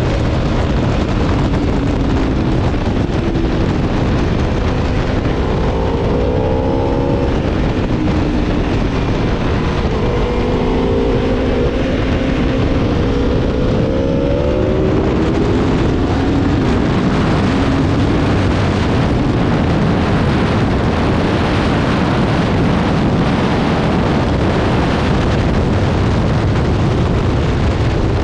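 Aprilia Tuono V4's V4 engine pulling hard, its pitch climbing again and again between about 5 and 15 seconds in, under a heavy rush of wind on the microphone that takes over in the second half.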